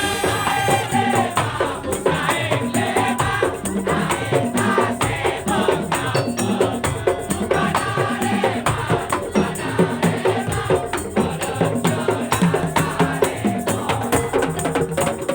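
Madurese daul (tong-tong) percussion ensemble playing: slit drums, drums and rattles beating a dense, driving rhythm under a wavering melody.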